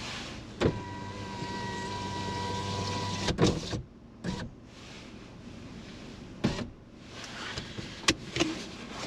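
Car's electric window motor whining steadily for about two and a half seconds and stopping with a knock as the glass reaches its stop, followed by a few scattered clicks and knocks.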